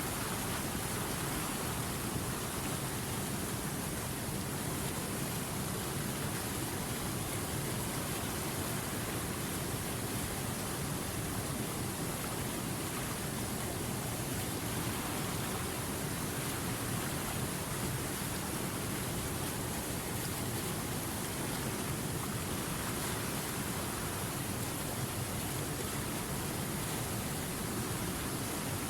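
Flowing river water: a steady, even rush with no separate splashes or changes.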